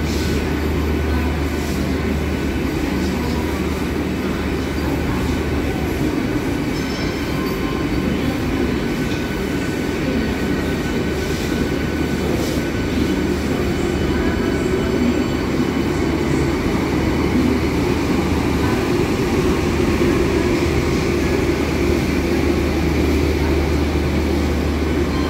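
Vande Bharat Express electric multiple-unit trainset running through the station: a steady, loud rumble of wheels on rail over a low hum, with light wheel squeal.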